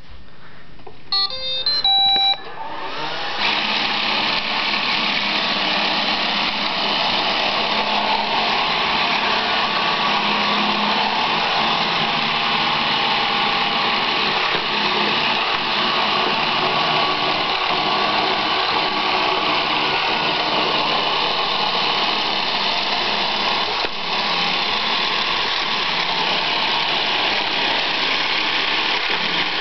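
Roomba robot vacuum playing its short start-up tune of beeps, then its vacuum motor and brushes running steadily.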